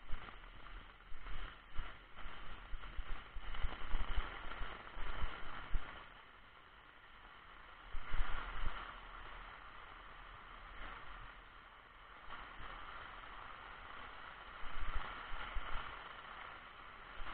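Rain falling steadily, with uneven knocks of drops striking an umbrella overhead. The knocks come thickest in the first six seconds and again about eight seconds in.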